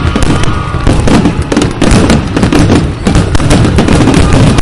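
Aerial firework shells bursting in rapid succession: a loud, continuous barrage of overlapping booms and crackles.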